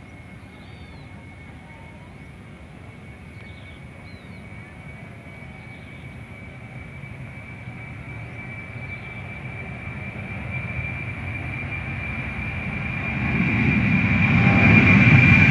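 A motor vehicle or aircraft approaching, growing steadily louder, with a rumble and a steady high whine that swell together in the last few seconds.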